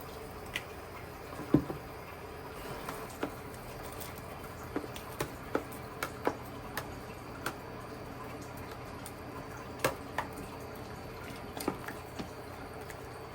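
Kitchen cooking sounds: scattered light clicks and small knocks, irregularly spaced, over a steady background hum, with one louder knock about a second and a half in.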